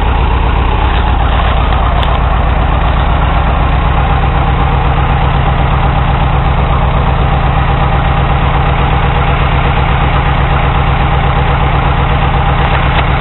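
Case 400 tractor's four-cylinder engine idling steadily at an even pitch, firing cleanly and running well.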